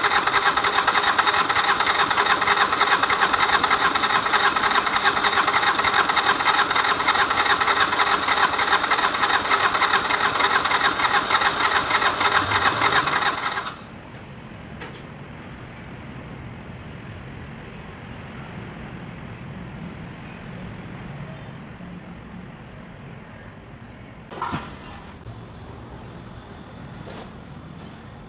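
Kubota D905 three-cylinder diesel being cranked on its starter motor, a fast, even chugging whine that stops abruptly about 14 seconds in without the engine catching: the engine is hard to start. A single short knock comes about ten seconds later.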